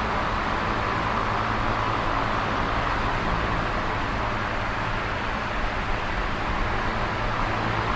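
Electric fan running steadily: an even rush of moving air with a low motor hum beneath it.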